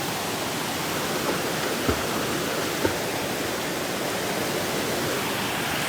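Waterfall, a steady rush of falling water, with two faint knocks about two and three seconds in.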